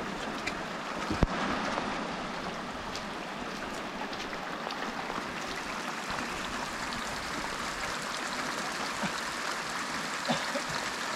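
Steady rain falling with rainwater running and trickling, and one sharp knock about a second in.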